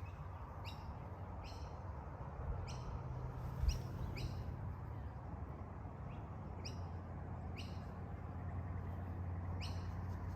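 Bird chirps: about ten short, high chirps at irregular intervals, over a steady low hum.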